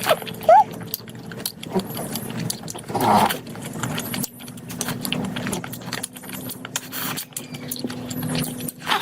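Close-up eating sounds: wet chewing and lip-smacking of curry, with many sharp clicks throughout and a louder burst about three seconds in.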